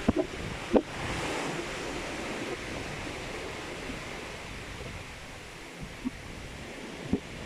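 Steady rush of open-ocean waves and wind, with a few short knocks near the start and again near the end.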